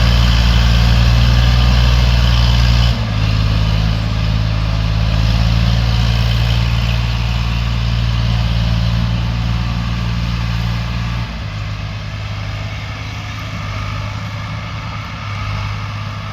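Heavy diesel engine running steadily, its speed dropping in two steps, about three seconds in and again about eleven seconds in.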